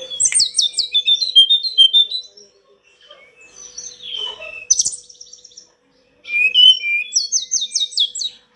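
Tledekan gunung singing: fast phrases of high whistled notes and rapid trills that rise and fall. There is a short silent break just after six seconds, and a faint steady hum runs underneath.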